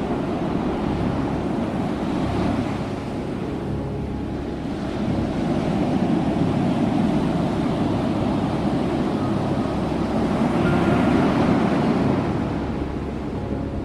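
Ocean waves breaking and washing up the shore as a continuous rushing surf with a deep rumble, swelling to its loudest about three-quarters of the way through, then easing off.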